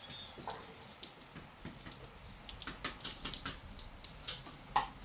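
Water splashing and dripping in small irregular bursts, with scattered light clicks and knocks.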